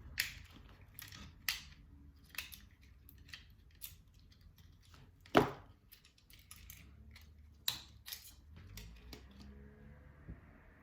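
Irregular clicks, taps and short scrapes of small parts and hand tools being handled, about a dozen in all, the loudest a sharp knock about five seconds in.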